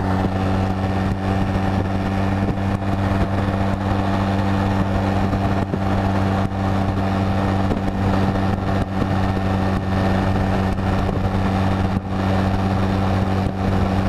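Honda Rebel 250's parallel-twin engine running at a steady cruising speed, with no revving or gear changes, under the rush of wind on the microphone.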